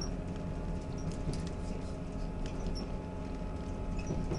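Steady rumble and drone of a diesel passenger train heard from inside the carriage as it runs along the track, with light clicking and rattling from the wheels and fittings.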